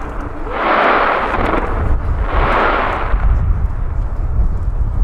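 Digital starmine fireworks going off in rapid succession: continuous deep booming from the shell bursts, with crackling and two louder rushing swells, each about a second long, near the start and in the middle.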